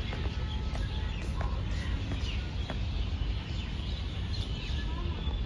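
Birds chirping and calling, many short scattered calls, over a steady low rumble.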